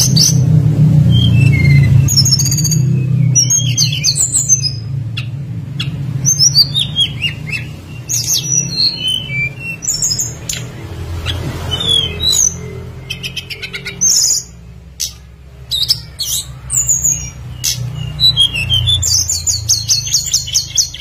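Tledekan gunung songbird calling in quick high chirps and short falling whistled sweeps, with bursts of rapid trills near the end. A steady low rumble runs underneath and is strongest in the first half.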